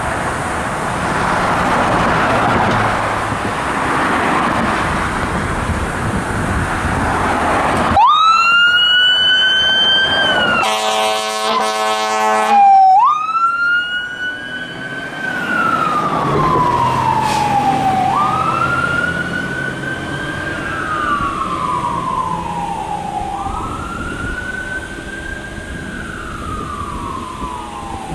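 A steady rushing noise, then about eight seconds in a siren winds up and holds. A steady horn blast follows for about two seconds, and then the siren goes into a slow wail, rising quickly and falling slowly about every five seconds.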